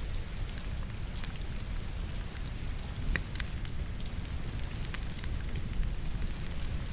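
Steady rain mixed with a wood fire crackling in a fireplace: a low rumble and even hiss of rain under scattered sharp pops and snaps from the burning logs.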